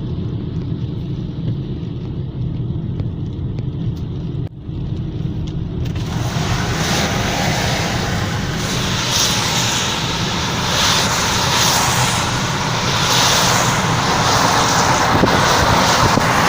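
Road noise heard from inside a moving car: a steady low engine and tyre drone, joined about six seconds in by a louder, wider hiss of wind and tyre noise that holds to the end.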